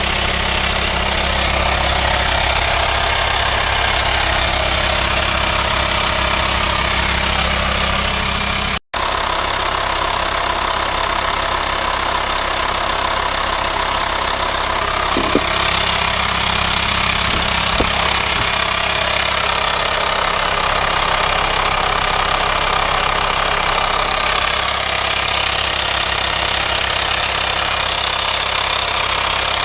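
VW Transporter T5's 2.5 TDI five-cylinder diesel idling steadily, with a hiss in the engine bay that sounds like a vacuum leak. The sound cuts out for an instant about nine seconds in.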